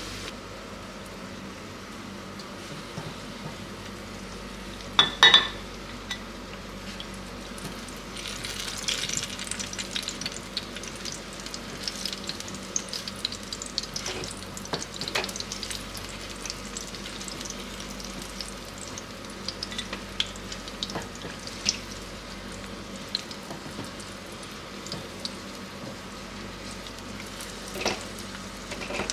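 Eggplant slices sizzling in hot oil in a frying pan, with scattered crackling pops as they are turned with a spatula. About five seconds in, two sharp knocks are the loudest sounds.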